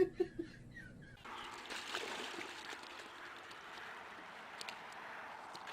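Running water: a steady rushing sound that sets in about a second in, with a few faint clicks.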